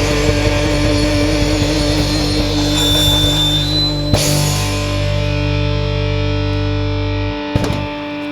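Heavy rock band playing, with distorted electric guitar over bass and drums; near the end the low end stops and the music thins out.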